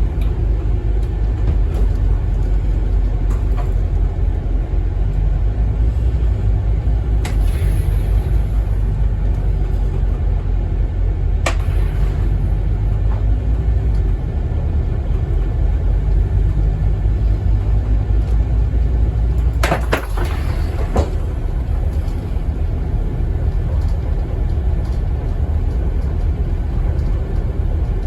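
Cabin noise aboard a Scania N270UD OmniCity double-decker bus under way: a steady low rumble of engine and road. Sharp knocks come about 7 and 11 seconds in, with a short cluster of knocks around 20 seconds.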